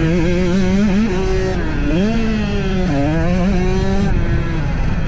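Dirt bike engine on the track, revving up and down as the throttle is worked through the gears, with the pitch dropping sharply twice and climbing again each time. About four seconds in the engine note falls away, leaving a low rush of wind and noise.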